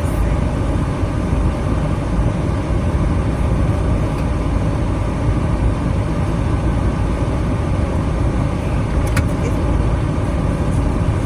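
Steady low rumble of a motor vehicle running, even and unbroken, with a few faint clicks near the end.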